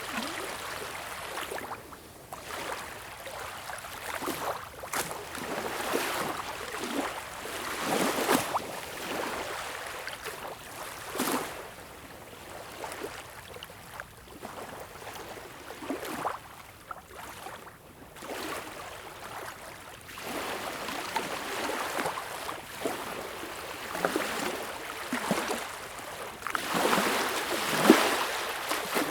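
Small waves lapping and washing on a beach, an irregular rise and fall of splashing with brief louder wash-ups every few seconds, the largest near the end.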